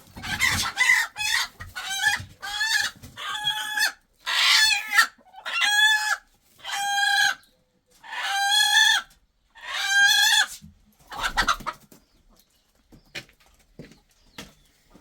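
A chicken calling: a run of loud, drawn-out squawks, about one a second, that stop about twelve seconds in.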